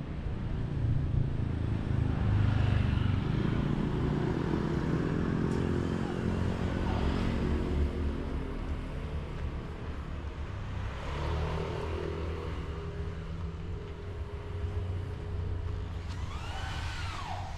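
Motor vehicles passing close by on a street, the engine loudest about one to four seconds in, with another pass around eleven seconds. A short rising-and-falling squeal comes near the end.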